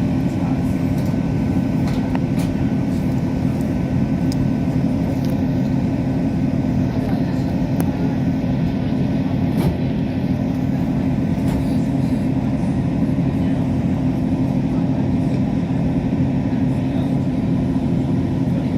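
Passenger train running, heard from inside the carriage: a steady rumble with a constant low hum and a few faint ticks.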